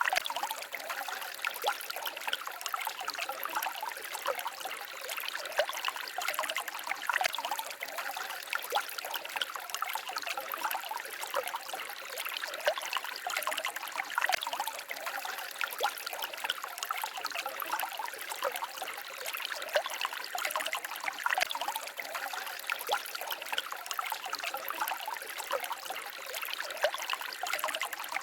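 Small forest stream babbling and trickling over stones, a steady busy splashing with no pauses.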